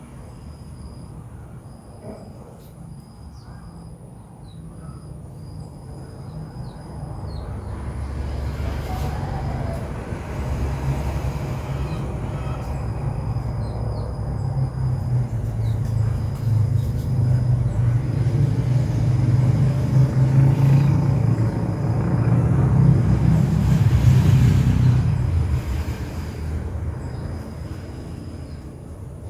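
Low rumble that swells over about fifteen seconds and then fades, with a faint steady high-pitched tone throughout.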